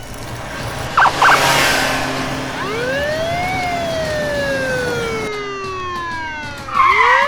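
Police siren wailing: one slow rise and long fall in pitch, then rising again near the end, with two short beeps about a second in.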